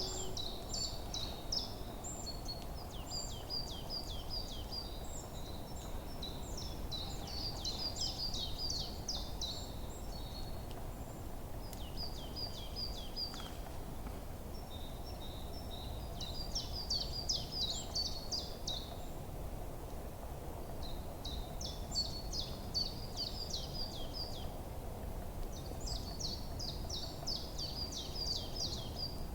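Songbirds singing in a forest: short phrases of high, rapid notes, repeated every few seconds, over a steady low background rumble.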